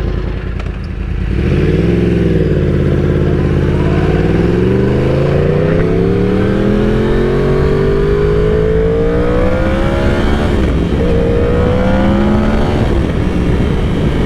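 Yamaha R1's inline-four engine under way: the revs climb slowly for several seconds, drop at a gear change about ten seconds in, then climb again and level off.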